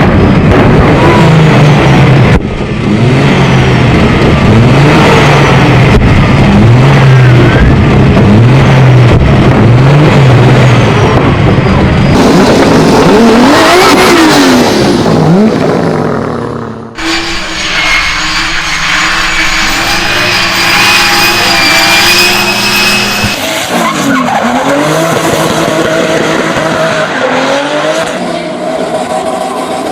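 Toyota Supra Mk4's 2JZ inline-six engine revving hard while drifting, its pitch swinging up and down again and again, with tyres squealing. About two-thirds of the way in the sound cuts to another run, where the engine is quieter and again rises and falls.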